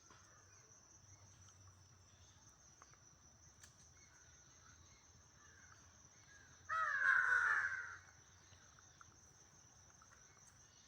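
A crow gives one harsh caw, about a second long, some two-thirds of the way in, over a faint, steady, high-pitched hum.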